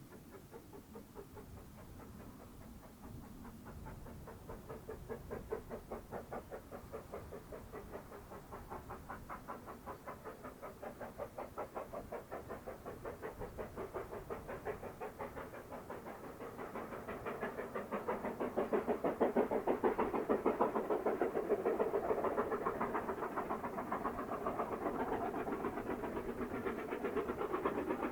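Steam locomotive working, its exhaust beating in a rapid, even chuff that grows louder as it approaches, loudest about two-thirds of the way through.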